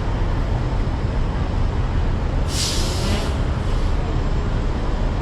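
Steady low rumble of heavy city traffic, with a brief hiss of air about halfway through.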